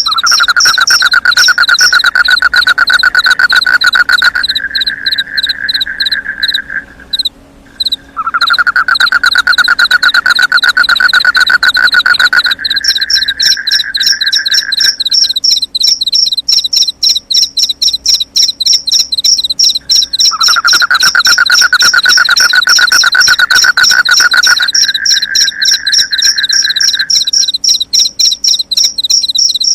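Crickets chirping in a fast, continuous high pulsing, with a lower frog trill that comes three times, each lasting five to seven seconds and stepping up in pitch partway through.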